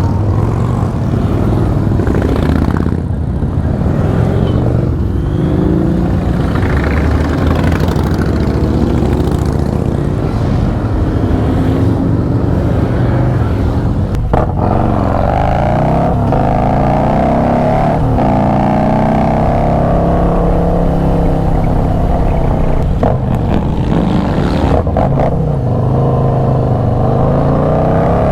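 Harley-Davidson V-twin motorcycle engines running together in a large group ride. From about halfway through, several engine notes rise and fall over one another as riders open and close the throttle.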